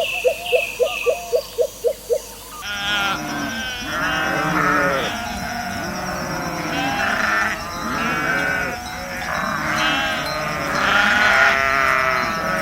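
A flock of sheep bleating, many voices overlapping and wavering, after a cut about two and a half seconds in. Before the cut there is a quick run of short repeated animal calls, about five a second.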